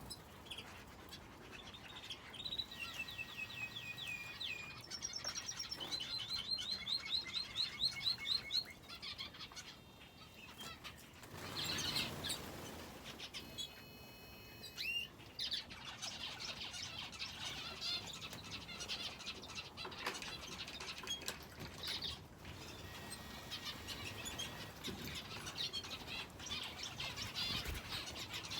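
Small cage birds, finches and a canary, chirping and singing continuously, with fast runs of repeated high trilled notes in the first several seconds. There is a brief rustle about twelve seconds in.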